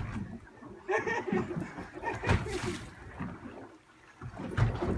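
Water splashing around a small fishing boat, with faint talk and a short noisy splash about halfway through and a low thump near the end.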